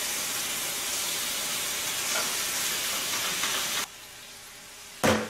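Pork belly strips sizzling steadily in a hot frying pan. The sizzle cuts off abruptly about four seconds in, and a single loud knock comes near the end.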